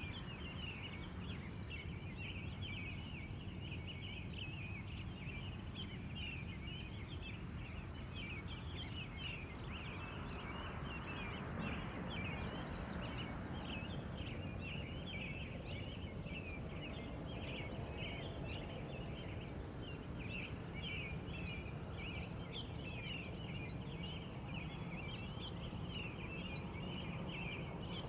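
Early-morning chorus of wild birds, with many short chirps and song notes overlapping continuously. Under it runs a steady high insect trill and a low background rumble. About twelve seconds in comes a brief burst of higher, rising chirps.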